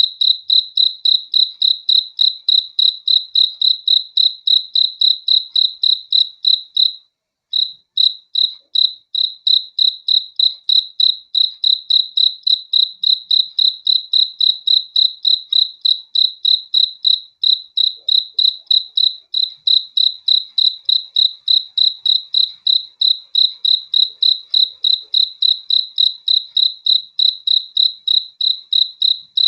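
A cricket chirping: a steady, high-pitched run of rapid, evenly spaced chirps on one note, with a brief break about seven seconds in.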